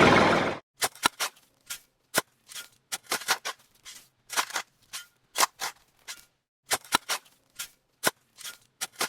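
A miniature tractor's motor runs and cuts off about half a second in. Then comes an irregular run of sharp little clicks and taps, two or three a second with short gaps, as small hard objects are put down one after another: miniature vegetables being loaded or unloaded by hand.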